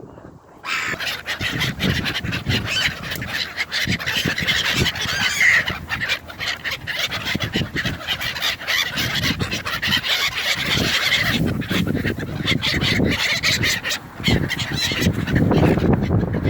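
A flock of seagulls calling and squawking over one another in a dense, loud clamour that starts suddenly just under a second in.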